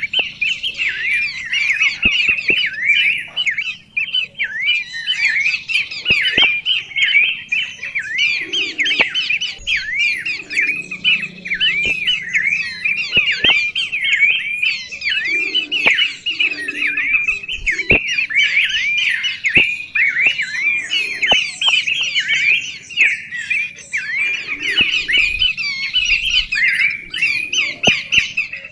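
Songbirds chirping continuously: a dense, unbroken stream of short, quickly repeated chirps, many overlapping.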